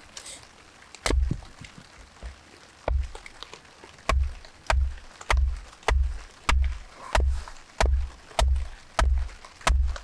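A series of knocks, each a dull thud with a sharp click, sparse at first and then falling into a steady beat of about one and a half a second from about four seconds in.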